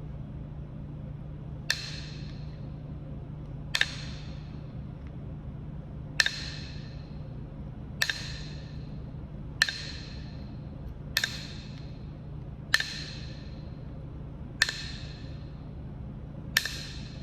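Flintknapping: a knapping tool strikes Kentucky hornstone nine times, each a sharp click with a brief ringing tail, about one every two seconds. A few of the strikes come as quick doubles.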